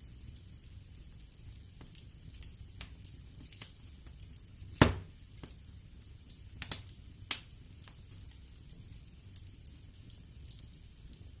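Wood fire crackling in a fireplace, with a low rumble of flames and scattered sharp pops; the loudest pop comes a little before halfway, and a couple more follow about two seconds later.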